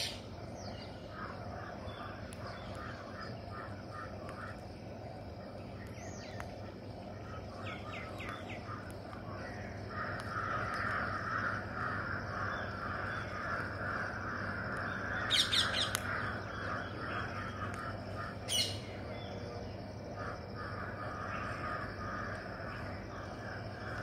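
Outdoor bird calls: a steady, rapid chatter of birds that grows louder a little before the middle, with two short, loud harsh calls past the middle.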